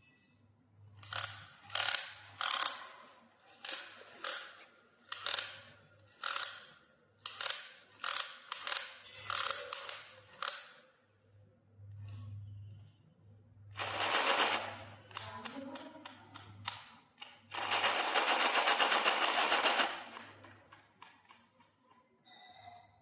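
Small motor and gears of an RC model tractor running in a series of short bursts, then a longer, fast rattling run near the end, over a low steady hum.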